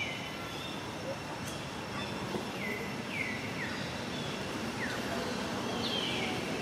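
Steady outdoor background hiss, with a bird's short, high calls falling in pitch repeating about six times through the second half.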